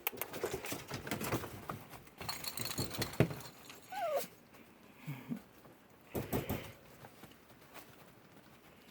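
Miniature schnauzer puppies moving about with light pattering and scrabbling sounds, and one short whine falling in pitch about four seconds in.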